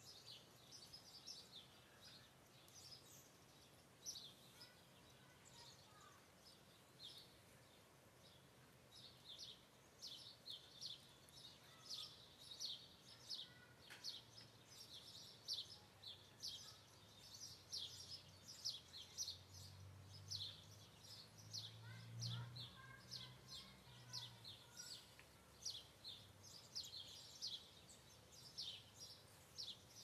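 Faint birdsong: a songbird chirping again and again with short, high, falling notes, the chirps coming thicker after about nine seconds. A low hum swells briefly past the middle.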